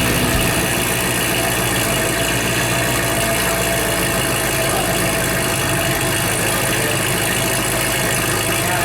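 C6 Corvette's LS2 V8, fitted with Kooks long-tube headers and a Corsa X-pipe and sport cat-back exhaust, running steadily at an even pitch without revving.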